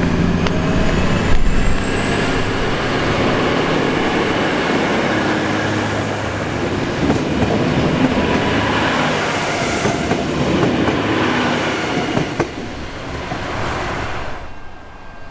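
Diesel train passing close by with loud rail and engine noise. A high whine climbs over the first couple of seconds, holds steady, and cuts off sharply near the end as the noise falls away.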